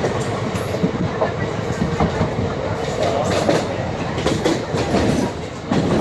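Indian Railways train running, a steady rumble with the wheels knocking irregularly over the rail joints.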